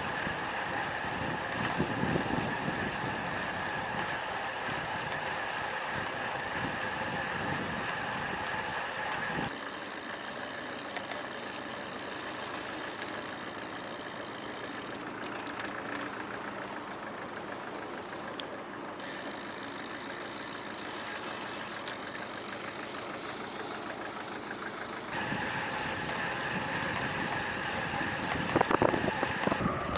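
Steady road noise from a road bike on the move, heard through the action camera, with a vehicle-like engine sound mixed in. The sound changes abruptly about a third of the way in and again later on, as at cuts between clips.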